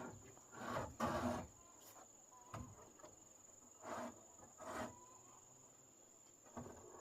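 Steady high-pitched drone of crickets, with a few scattered knocks and scrapes from handling building materials about one, two and a half, four and five seconds in.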